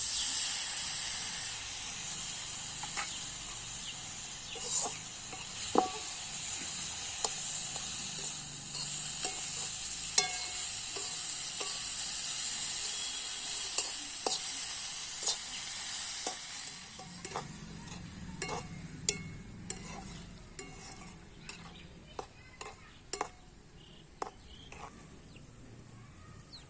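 Onions, chillies and peas frying in hot oil in a pan for a dried-fish curry, sizzling while a spoon stirs and knocks against the pan. The sizzle dies down about two-thirds of the way through, leaving mostly scattered clicks of the spoon on the pan.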